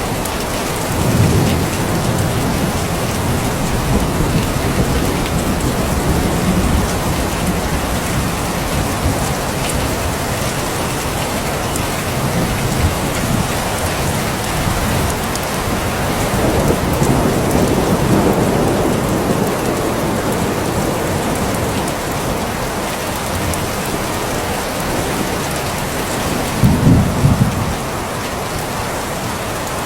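Steady heavy rain, with low rumbles of thunder rolling in a few times, the loudest near the end.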